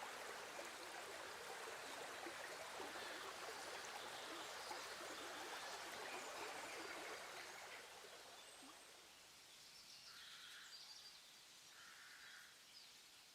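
Faint steady background hiss that drops away about eight seconds in, leaving near silence with a few faint soft sounds spaced about two seconds apart.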